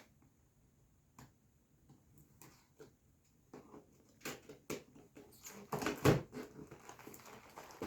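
Packaging of a boxed gingerbread kit being opened and handled: scattered light clicks and taps, then louder rustling and crinkling about five and a half to six and a half seconds in.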